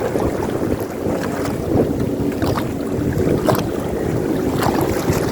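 Jet ski engine running steadily while under way, with wind buffeting the microphone and a few short sharp knocks.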